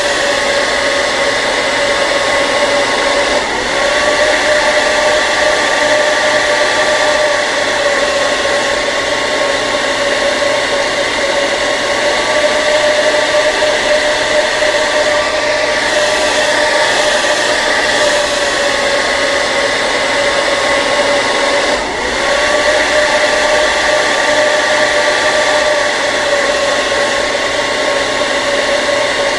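Electric hair dryer running continuously: a steady rush of air with a constant motor whine. The sound dips briefly twice, a few seconds in and again about three-quarters of the way through.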